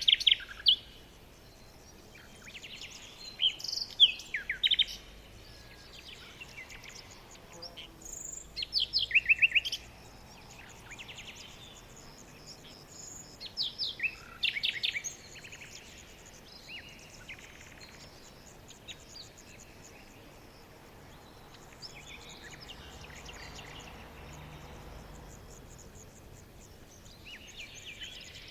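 Birds singing in short bursts of quick, high chirps and trills, with pauses between phrases, over a faint steady background of insects.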